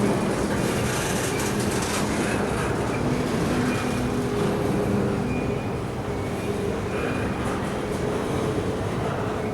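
Norfolk Southern freight train rolling past, a steady rumble of wheels on the rails with brief faint high-pitched tones now and then.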